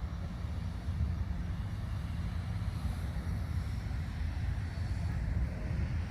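A steady low rumble with a faint hiss above it, even throughout.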